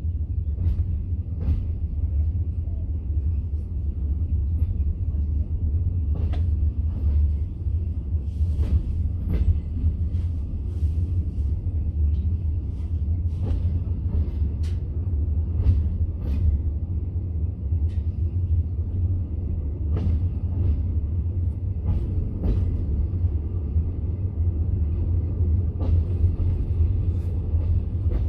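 Passenger train carriage in motion: a steady low rumble from the running gear, with scattered, irregular clicks and knocks from the wheels on the rails.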